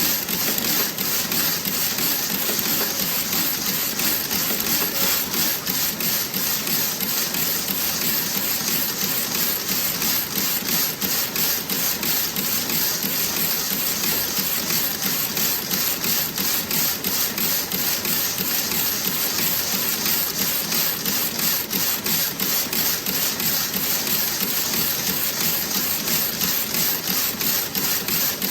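Toe-sock knitting machine running steadily, with a fast, even clatter of clicks.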